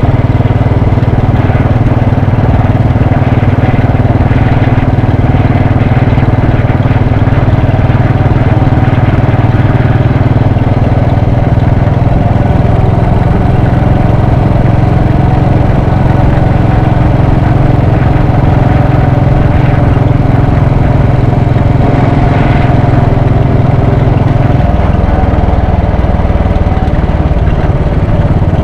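Royal Enfield Bullet 500's single-cylinder engine running steadily under a rider. Near the end its note steps down lower.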